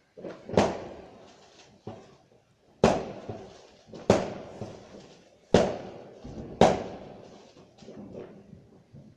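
Fireworks going off: five loud, irregular bangs, each followed by a rolling echo, with fainter pops among them.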